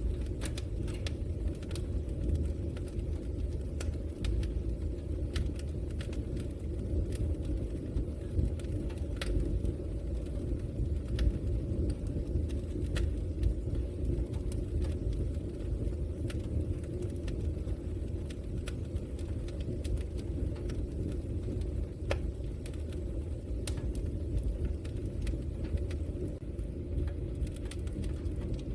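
Log fire burning with a steady low rumble of flames and scattered sharp crackles and pops of the burning wood.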